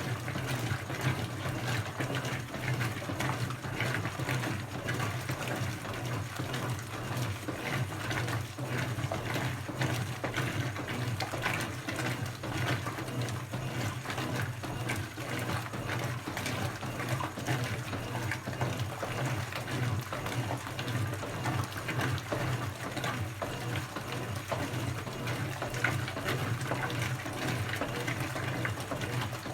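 Brastemp BWK17 17 kg washing machine running on its quick cycle: a steady low motor hum under continuous, uneven water noise in the tub.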